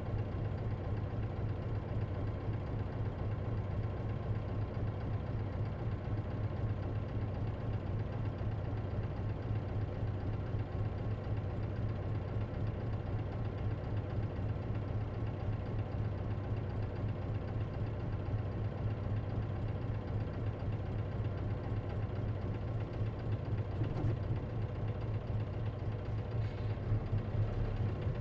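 Isuzu KC-LV380N city bus engine idling steadily with a low hum, heard from inside the passenger cabin. A faint click comes about three-quarters of the way through.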